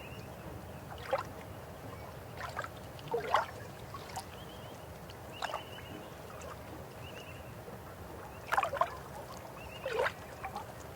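River water flowing with a steady low rush, broken by irregular gurgles and plops every second or two.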